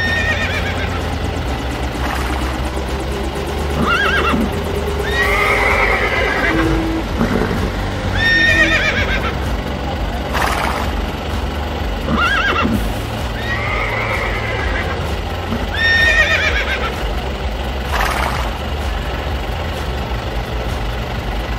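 Horse whinnying sound effect, repeated about every two seconds, over background music with a steady low hum.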